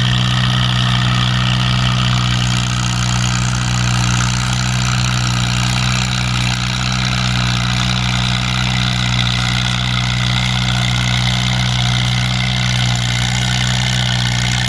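Farm tractor engine running steadily under load, pulling the weight sled down the track, with an unchanging pitch throughout.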